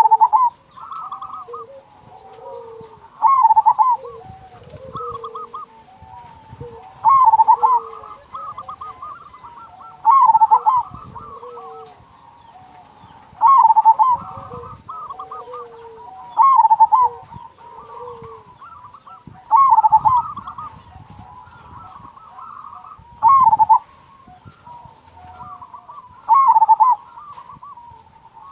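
Zebra doves (perkutut) cooing, with a loud, rapid rolling coo phrase about every three seconds and softer cooing from other doves in between.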